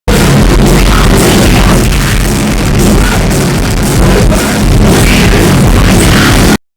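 Punk band playing live at full volume, with distorted electric guitars, bass and pounding drums, recorded close up and overloaded. The sound cuts off abruptly near the end.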